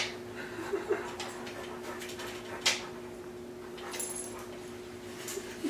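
Dog mouthing and playing with a cat, its sounds faint, over a steady low hum, with one sharp click about two and a half seconds in.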